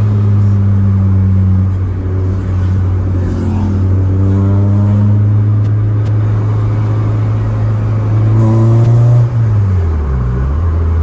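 Toyota Corolla Twincam GTi's 1.6-litre 4A-GE twin-cam four-cylinder running through its new muffler with a steady deep drone. About nine seconds in, the revs drop sharply and the pitch falls.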